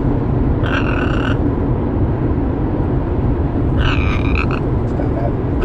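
Pet bird babbling: two short calls, about a second in and again about four seconds in, over a steady low rumble.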